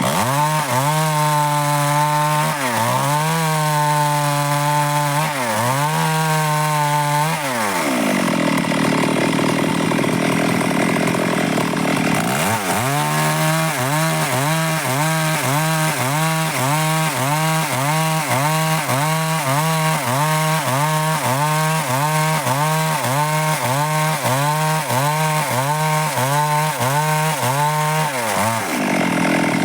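Stihl MS 382 two-stroke chainsaw cutting dry wood, its engine pitch dipping and recovering over and over as the chain bites. In the middle there is a stretch of steadier cutting at full throttle.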